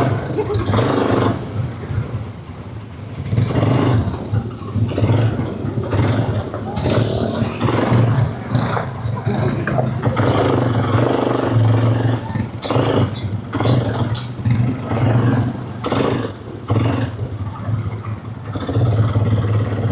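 Quad bike engines running, a steady low drone that rises and dips unevenly.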